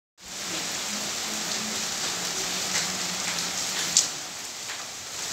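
Heavy rain falling steadily on a wet concrete courtyard and a thatched roof, with scattered drops ticking and one sharp tap about four seconds in.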